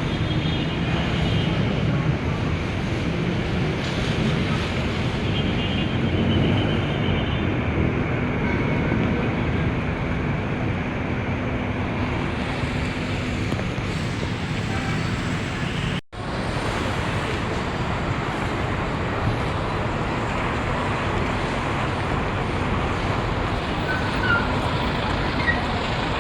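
Steady vehicle and traffic noise, cut off for a moment about sixteen seconds in.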